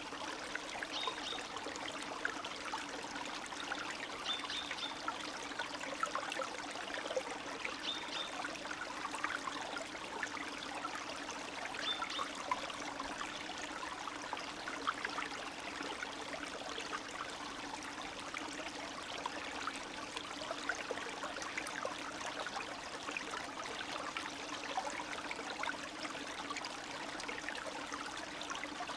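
Stream water running and trickling steadily, with many small gurgles and splashes.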